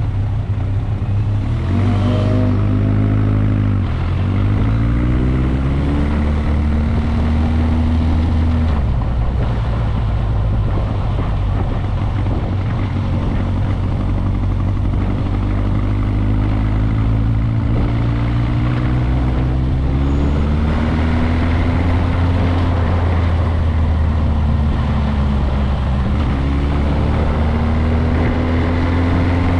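Motorcycle engine pulling up through the gears as it rides: the pitch climbs, then drops back at each shift, about four seconds in, near nine seconds and again near the end. A steady rush of wind and road noise runs underneath.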